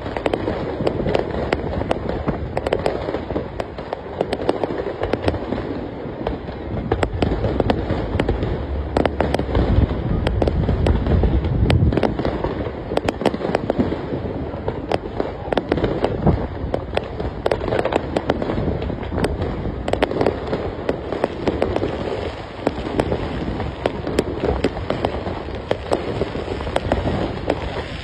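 Fireworks display: a dense, continuous barrage of crackling and popping bursts over a low rumble of booming shells, heaviest about ten seconds in.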